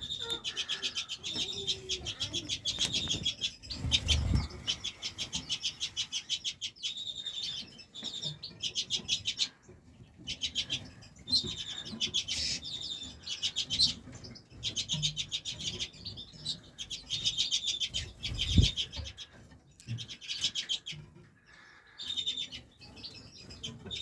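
Caged redpolls calling, with runs of fast, repeated high chattering notes broken by short pauses. Two brief low thumps come about four seconds in and again near the end.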